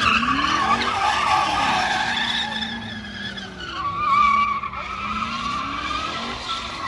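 Tyres squealing steadily as a vehicle spins them, with the engine revving up and down underneath; the screech is loudest about four seconds in.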